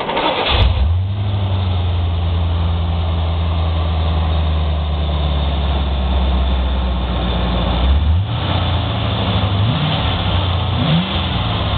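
1984 Corvette's small-block V8, converted to tuned port injection and fitted with a new exhaust, starting up about half a second in and then idling steadily. Over the last few seconds the throttle is blipped several times, the revs rising and falling.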